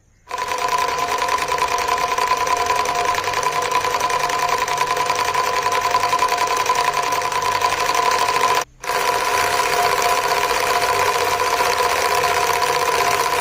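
Homemade two-cylinder V2 engine built from syringes, running fast with a steady, rapid mechanical chatter like a sewing machine. It cuts out briefly about two-thirds of the way through, then runs on.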